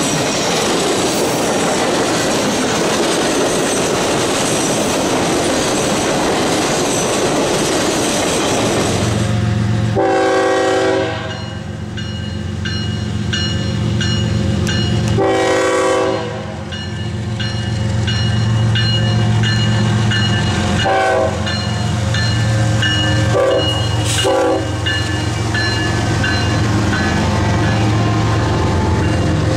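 Freight cars rolling past with a steady rushing noise, then a diesel locomotive approaching with its engine running and sounding its horn: two long blasts about five seconds apart, followed by shorter ones. A bell rings in a steady rhythm while intermodal trailers roll by with a clickety-clack of wheels.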